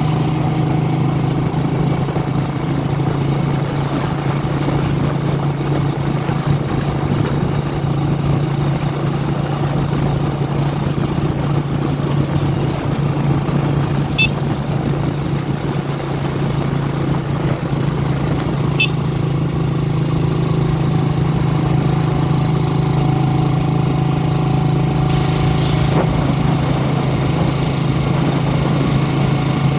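Motorcycle engine of a sidecar tricycle running steadily as it rides along a road, a constant low drone heard from the sidecar.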